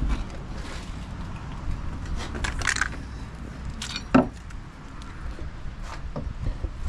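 Work noises on a wooden deck: scattered clicks and a metallic rattle, then one sharp knock about four seconds in, over a low steady rumble.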